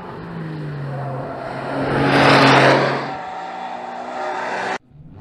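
Porsche 911 flat-six engine and exhaust as the car drives by, swelling to its loudest about two seconds in and then easing off. The sound cuts off abruptly near the end.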